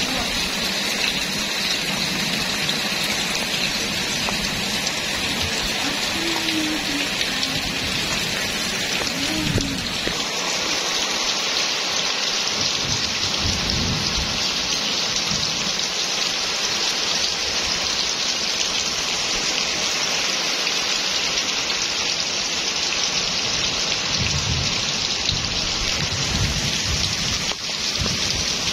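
Heavy rain falling steadily, a dense, even hiss. About ten seconds in the hiss turns brighter and more even.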